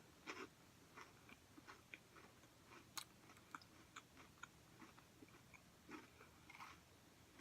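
Faint chewing close to the microphone: scattered soft mouth clicks and small crunches of a person eating a peanut butter chocolate granola cup.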